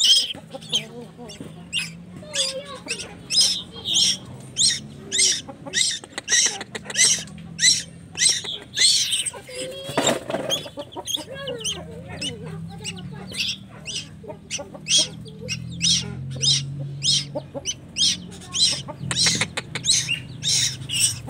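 A tuwu chick giving short, sharp, high begging calls over and over, about two a second, as it is hand-fed.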